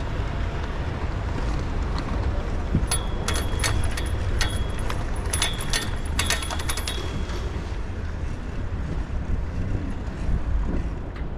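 Steady low rumble of city traffic heard while riding a bike. About three seconds in, a run of sharp metallic clicks with a ringing tone lasts about four seconds, then stops.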